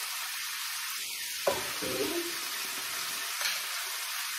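Turkey frying in oil in a pan, a steady sizzle. A sharp knock comes about a second and a half in, and a lighter click comes near the end.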